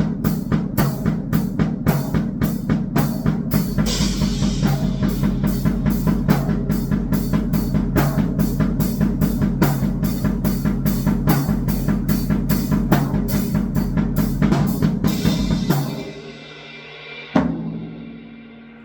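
Electronic noise music made of drum-like hits, about three a second, over a steady low drone. It stops about 16 s in, and a single last hit rings out and fades near the end.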